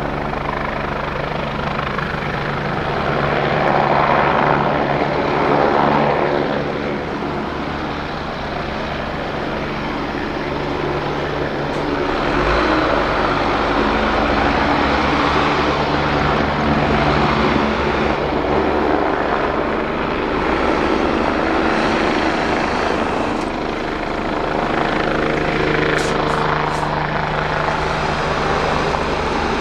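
Kawasaki BK117 C-2 helicopter running at flying power: its twin Turbomeca Arriel 1E2 turboshafts and four-bladed rotor give a steady hum, with rotor noise swelling and fading every few seconds.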